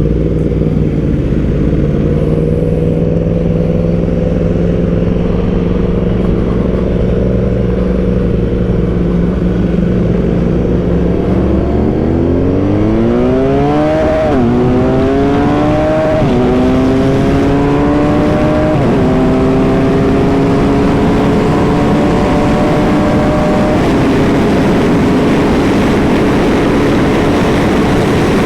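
BMW R 1250 GS Adventure's boxer-twin engine running at a steady note, then accelerating hard: the pitch climbs and drops back three times as it shifts up through the gears, then holds at speed. Wind noise rises with the speed.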